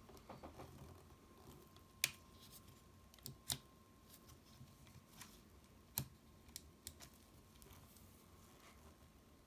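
Scattered sharp clicks and taps of small tools and plastic parts being handled while a Nintendo Switch console is taken apart, the loudest click about two seconds in and a few more later, over a faint steady thin hum.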